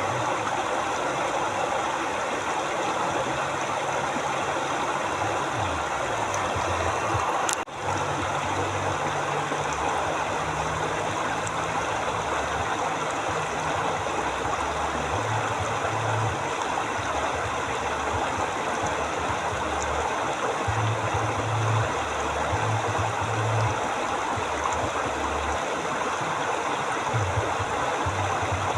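Steady rushing of a flowing river, an even wash of water noise that cuts out for a split second about a quarter of the way in.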